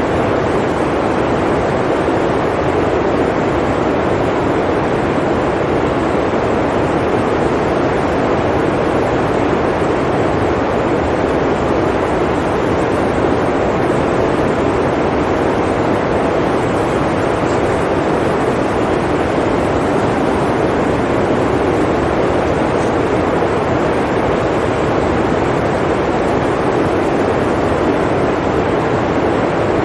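Blizzard wind, a steady rushing roar that holds an even level throughout, with no gusts or breaks.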